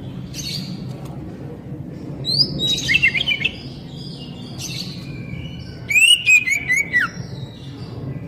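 Oriental magpie-robin (kacer) singing: two loud bursts of quick whistled notes sliding up and down, a few seconds apart, with softer chirps in between. A steady low hum runs underneath.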